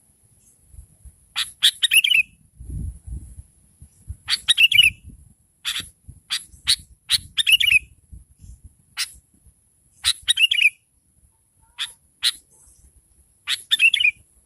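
Sooty-headed bulbul (kutilang) calling: short sharp chirps, alone or in quick clusters that end in a bubbling phrase, repeated every second or two.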